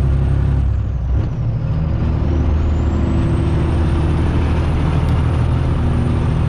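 Straight-piped Detroit diesel of a Freightliner Classic XL truck pulling uphill. The engine note dips briefly about a second in, then settles back into a steady pull.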